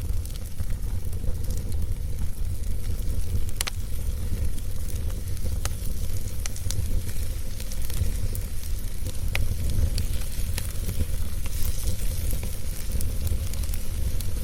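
Fire burning in a fireplace: a steady low rumble under a hiss, with scattered sharp crackles and pops every second or two.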